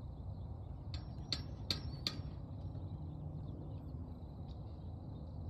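A bird chirps four times in quick succession about a second in, over a steady low outdoor rumble.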